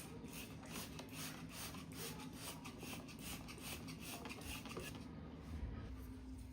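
Rhythmic rubbing or scrubbing strokes on a surface, about three a second, stopping about five seconds in, over a faint steady hum.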